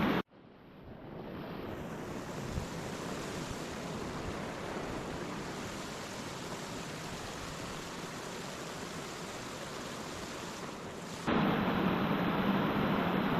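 A steady, even rushing noise that fades in over the first second or so. About two seconds before the end it cuts abruptly to a louder, different background.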